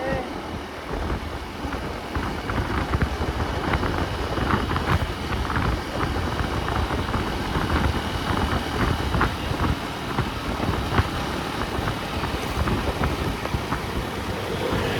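A road vehicle driving, with a steady low rumble of engine and road noise and frequent small knocks and rattles throughout.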